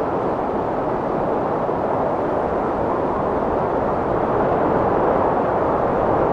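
Strong wind blowing steadily, a dense rushing noise that swells a little louder about two-thirds of the way through.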